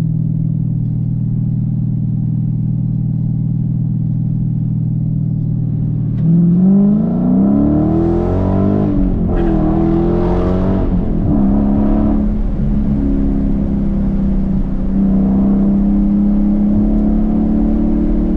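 Dodge Challenger engine and exhaust while driving: a steady cruising drone, then about six seconds in the engine pulls hard and rises in pitch, breaks and drops back a few seconds later, and settles into a steady, slightly higher drone.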